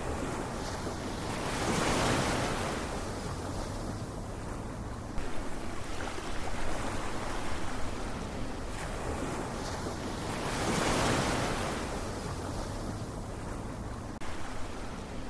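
Ocean surf: waves washing in with two large surges about nine seconds apart and a steady rush of water between them.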